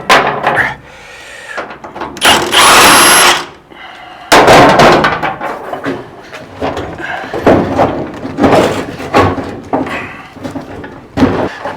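Metal clanks and knocks from removing the door of a 1957 GMC truck cab, with a loud rushing burst lasting about a second a little over two seconds in.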